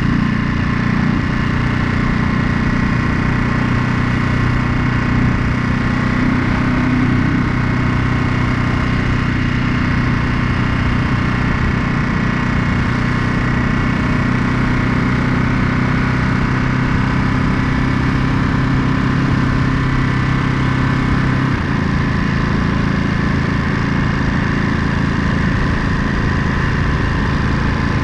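Ducati Monster 937's 937 cc L-twin engine running steadily at low, constant revs, with a slight shift in engine note about three-quarters of the way through.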